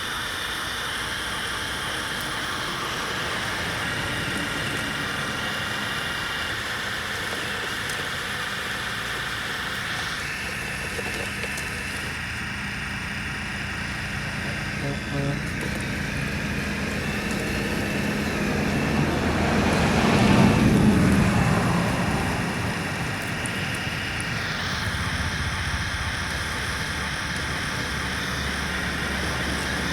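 Steady whine and hum of remote-control construction models' electric motors and gears working. A road vehicle passes, its sound swelling and fading about two-thirds of the way in.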